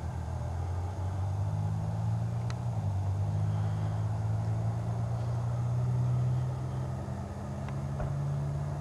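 Car engine idling steadily: a low, even hum whose pitch shifts slightly about a third of the way in and again near the end.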